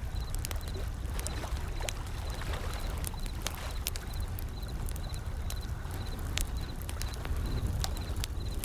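Wood fire crackling with many sharp pops and snaps, over the low, steady wash of ocean waves. A faint high-pitched chirp repeats steadily throughout.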